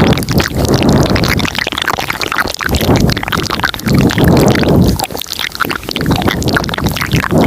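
Layered ASMR mouth sounds recorded close to the microphone: dense, rapid wet clicks and smacks in overlapping tracks, with thick low swells about once a second.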